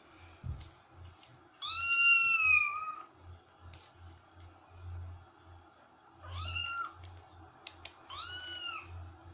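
A domestic cat meowing three times: a long meow about two seconds in, then two shorter meows near the end, each rising and then falling in pitch.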